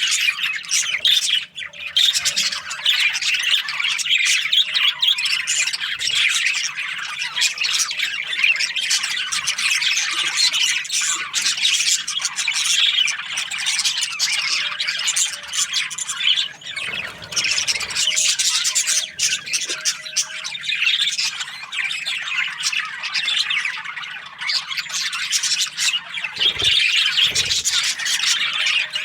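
A flock of budgerigars chattering and chirping, a dense, unbroken mass of overlapping calls. A few low thumps sound under it about halfway through and again near the end.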